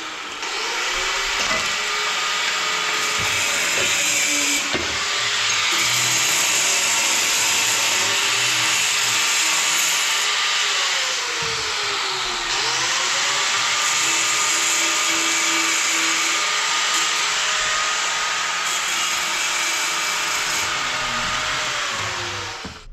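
Handheld electric power tool running continuously, with a loud motor whine over a gritty hiss. The motor pitch sags under load and picks back up near the start and again about halfway through. It cuts off right at the end.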